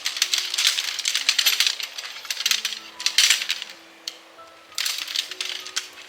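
Repeated bursts of clattering and clinking from small hard objects being handled, each burst lasting about a second, over soft background music with slow held notes.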